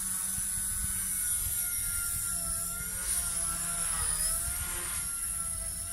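XK K110 micro RC helicopter's motor and rotor whining steadily at a high pitch, the pitch wavering slightly up and down as the throttle changes.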